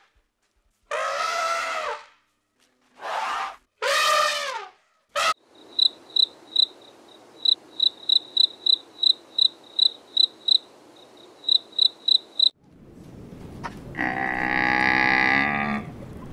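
A few short animal calls, then a cricket chirping, high and regular at about three chirps a second, stopping suddenly. Near the end a cow moos once.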